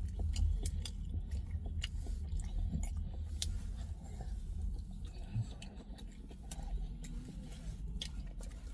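A person chewing a mouthful of doner kebab close to the microphone: irregular short, wet mouth clicks over a steady low rumble.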